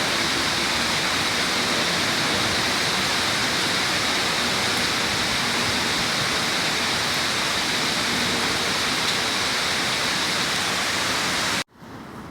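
Steady rushing hiss of water that cuts off abruptly near the end.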